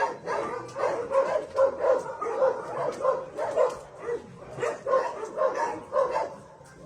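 A group of shelter dogs barking and yipping, short barks overlapping one after another in quick succession.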